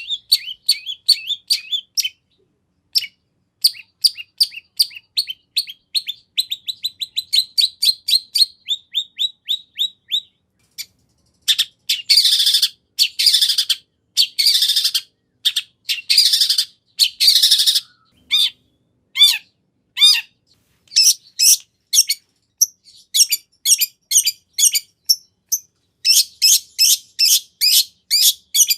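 Long-tailed shrike (cendet) singing a fast, varied song of rapid chirps and trills. Around the middle come several long, harsh rasping bursts, and near the end a run of quick repeated notes.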